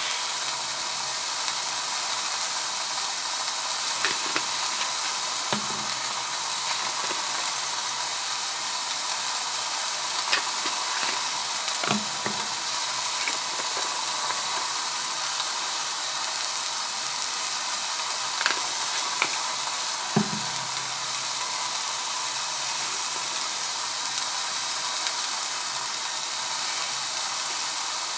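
Burger patty sizzling as it fries, a steady hiss broken by a few soft knocks.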